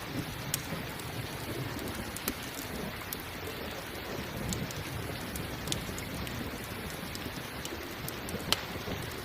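Steady rain with a low rumble of thunder, mixed with a crackling campfire: scattered sharp pops and snaps, the loudest one near the end.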